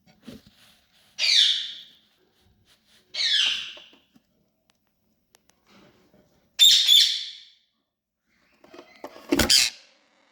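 Ring-necked parakeet chicks giving four short, harsh, rasping calls a few seconds apart, each tailing off; the last comes together with a low thump.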